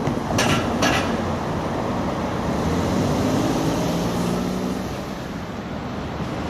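A train running over the level crossing: a steady rolling rumble with two sharp wheel clacks over the rail joints in the first second, and a faint low hum in the middle.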